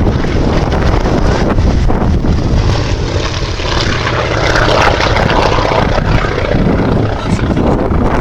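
Yakovlev Yak-11 propeller trainer flying a display, its piston engine and propeller droning steadily and swelling briefly about four to five seconds in as it passes.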